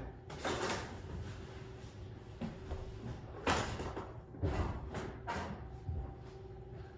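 Scattered knocks, bumps and rustles of a person climbing through a Tesla Cybertruck's cabin, the sharpest knock about three and a half seconds in and a quick run of smaller ones soon after, over a faint steady hum.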